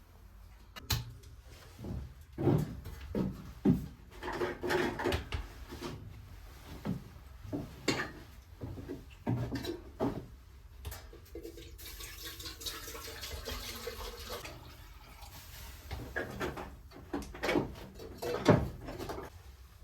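Irregular knocks and clatter of objects being handled, with a hiss lasting a couple of seconds about twelve seconds in.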